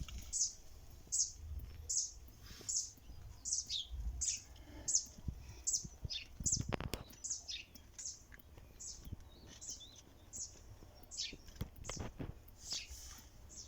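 A small bird chirping over and over, short high chirps about twice a second, with a few dull knocks about halfway and near the end.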